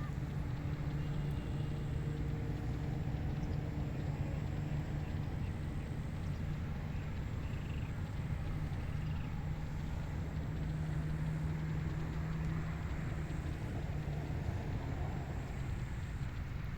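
Wind rumbling on the microphone over a rice paddy, with a steady low mechanical hum that swells and fades. A few faint short chirps sound now and then.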